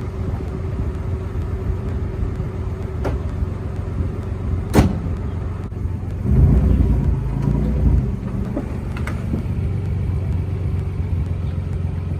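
1990 Nissan 300ZX's 3.0-litre V6 idling steadily. A single sharp click comes about five seconds in, and a louder spell of low noise lasts about two seconds shortly after.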